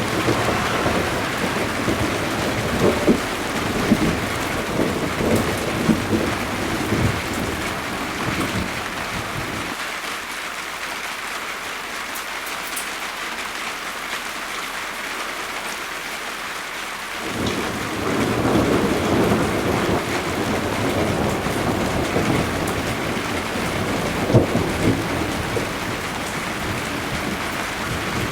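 Rain falling steadily with the low rumble of thunder. The rumbling cuts off abruptly about ten seconds in, leaving only the rain, and comes back about seven seconds later.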